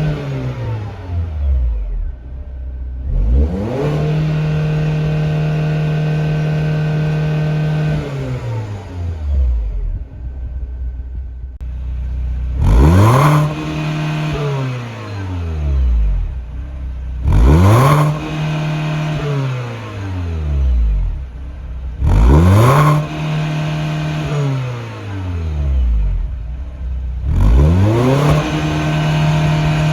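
BMW MINI Cooper R56's N16B16A 1.6-litre four-cylinder petrol engine being revved repeatedly: the revs climb quickly, are held high for a few seconds, then fall back toward idle, five times over.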